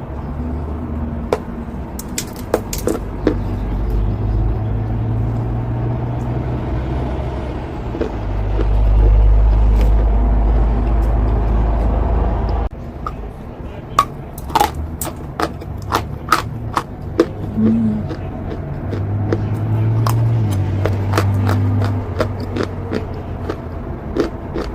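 Sharp, crisp crunching clicks of chalk being bitten and chewed, many in quick succession in the second half, over a low steady rumble that cuts off abruptly about halfway through.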